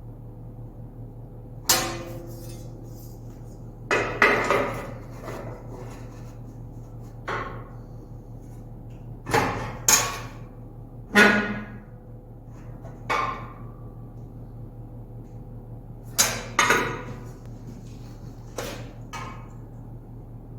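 Aluminum parts being handled and knocked together during assembly: about a dozen irregular metallic clanks and taps with short ringing, some in quick pairs, over a steady low hum.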